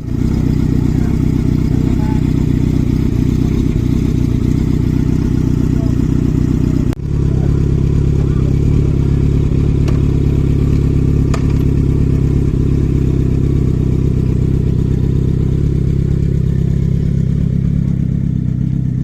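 Motorcycle engine running steadily at constant speed, with a momentary break about seven seconds in.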